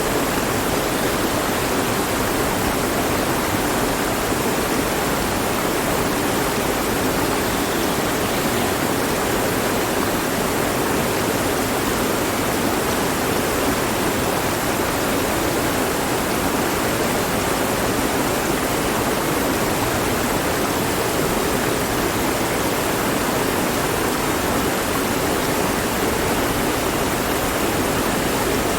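Mountain stream flowing over rocks: a steady, even rush of water with no breaks or changes.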